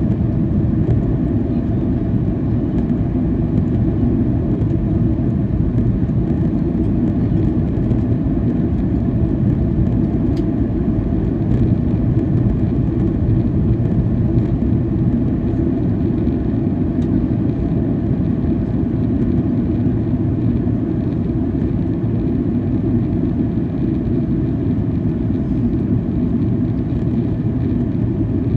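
Steady cabin drone of a Boeing 737-800 in flight, from its CFM56-7B turbofans and the airflow over the fuselage, heard from a window seat. It is a loud, even rumble weighted low, with a faint click about ten seconds in.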